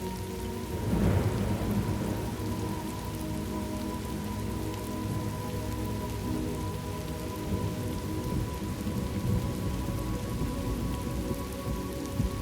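Steady rain falling, with a roll of thunder rumbling in about a second in and fading over the next second or so.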